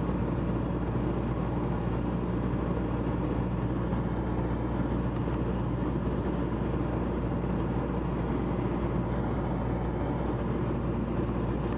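Steady drone of a Cessna 172's single piston engine and propeller heard inside the cabin, mixed with rushing airflow, holding even in level flight.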